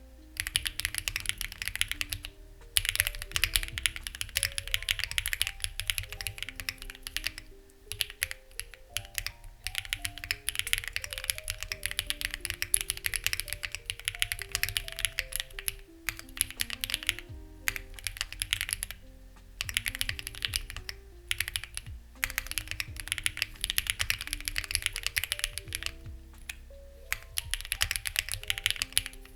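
Steady typing on a Lucky65 v2 mechanical keyboard with stock, unlubed HMX Ziwei switches, stock plate and stabilizers, and clone CMK keycaps: fast runs of key clicks broken by short pauses every few seconds. Soft background music plays underneath.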